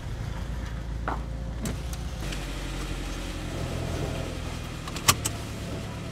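Saab car engine idling, a steady low hum heard from inside the cabin, with two sharp clicks about five seconds in.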